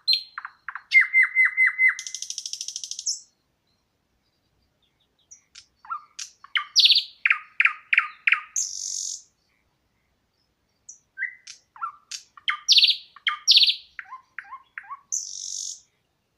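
Songbird song in three phrases with short pauses between. Each phrase is a quick run of high chirps and trilled notes that ends in a high buzzy trill.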